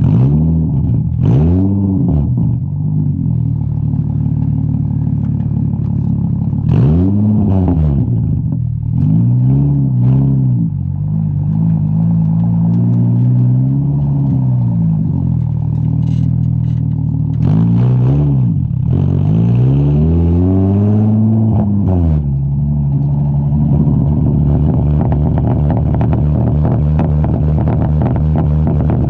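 Straight-piped Infiniti G35's 3.5-litre V6, on a single-exit exhaust, revved in about six short blips that each rise and fall back. It then settles to a steady, pulsing idle for the last several seconds.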